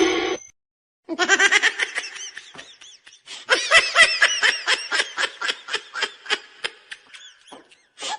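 A person laughing hard in rapid, repeated short bursts, about four a second, starting about a second in.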